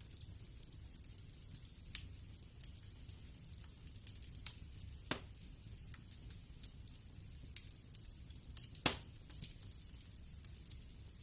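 Wood fire crackling in a fireplace: irregular sharp pops and snaps over a low steady rumble of the flames, the loudest pop about nine seconds in.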